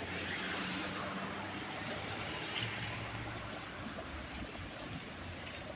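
Steady rush of running water, with a low engine hum fading out over the first few seconds.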